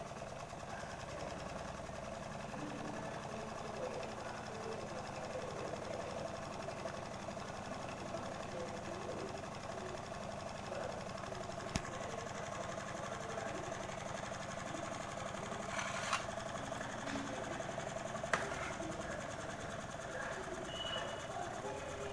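Small Stirling engine running steadily with a fast, even mechanical clatter and a steady whine. Sharp clicks come about halfway through and twice more near the end.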